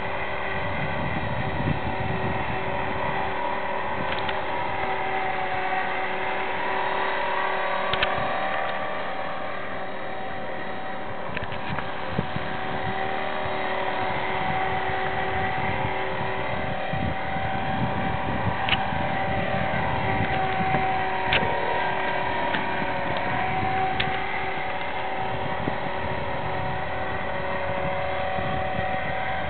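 Small electric RC helicopter hovering: a steady whine from its motor and gears over the whoosh of the rotors, the pitch wavering a little with throttle corrections, with a few sharp clicks.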